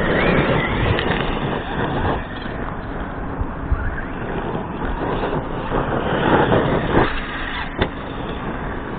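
Arrma Kraton RC truck with a brushless motor, driven hard over rough ground, its motor and tyres rising in two louder surges, with one sharp knock near the end.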